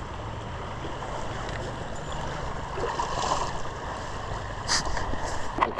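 Steady rush of a river running through rapids, with a few light knocks or handling clicks near the end.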